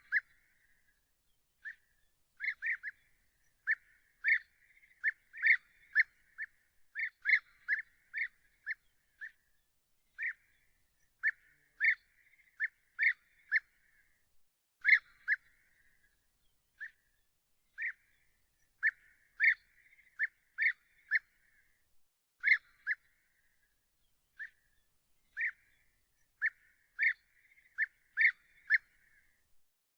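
A bird calling with short, sharp notes again and again, singly and in quick runs of two to four, with no other sound behind them.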